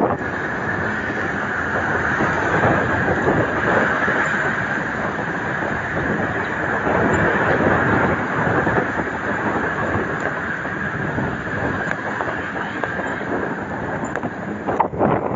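Steady rumbling rolling noise with a hiss band in it, loud and even for about fifteen seconds, starting and stopping abruptly.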